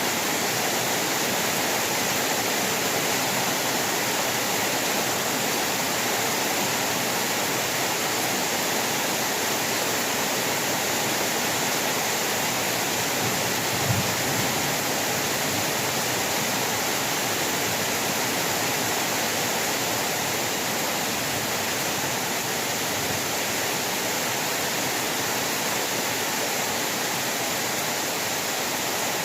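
Heavy rain falling steadily, a dense, even hiss. About halfway through there is a single brief low thump.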